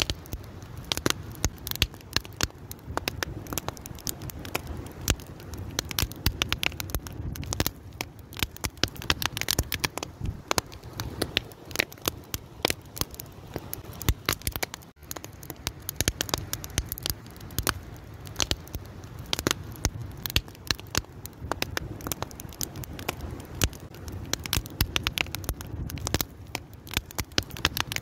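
A fire crackling: dense, irregular pops and snaps over a steady low hiss, dropping out for an instant about halfway through.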